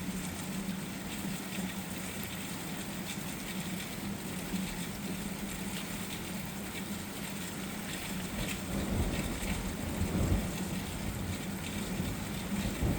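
Steady distant hiss of heavy rain or gusty wind approaching with a thunderstorm, with a low rumble swelling up about two-thirds of the way through.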